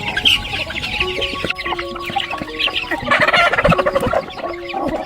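Chickens clucking busily, with a louder flurry of squawking about three seconds in, over soft background music.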